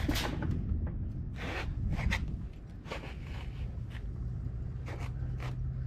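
Short, irregular scrapes and rubs as a boat's inboard engine is lifted out of its engine bay, over a steady low hum.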